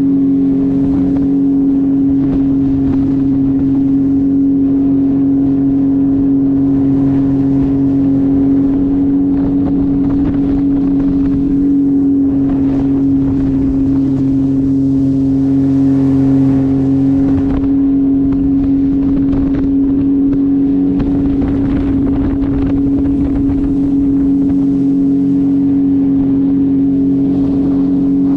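Jet ski engine running at a steady, unchanging pitch while under way, with wind noise on the microphone.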